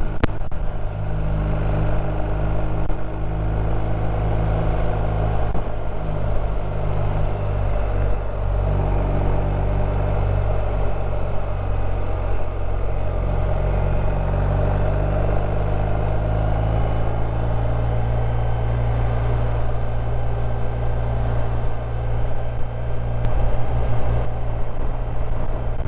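BMW R1250 RT's boxer-twin engine running steadily as the motorcycle is ridden, its note holding fairly even throughout.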